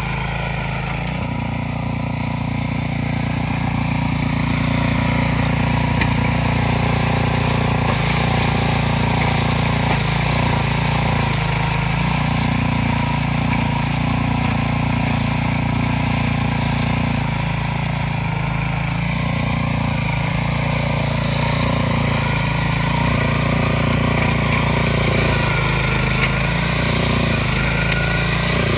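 Harbor Freight Predator single-cylinder engine running steadily on a Troy-Bilt Pony rototiller, its speed dipping briefly now and then.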